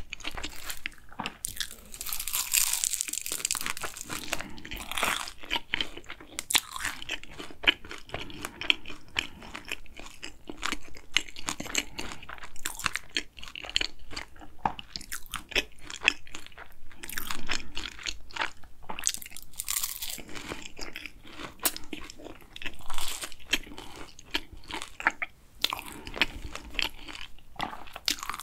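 Close-miked chewing of a hazelnut Nutella cronut: the crisp, flaky pastry and chopped hazelnut topping crunch steadily between the teeth, loudest a couple of seconds in and again about two-thirds of the way through.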